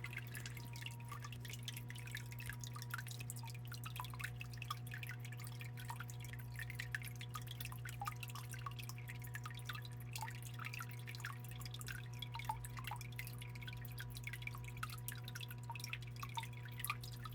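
Water from a small stone waterfall in a biotope pond trickling and dripping into the water: many quick, irregular drips and plinks. A steady low hum runs underneath.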